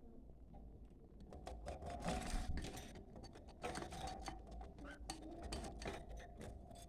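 Budgerigars chattering: fast clicks and short chirps mixed with soft warbling, busiest in the middle.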